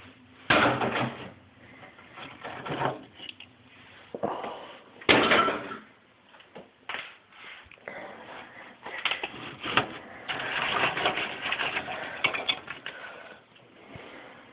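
A hammer knocking and scraping at built-up ice inside a refrigerator, in irregular bursts, with a longer stretch of continuous scraping and crunching about ten seconds in.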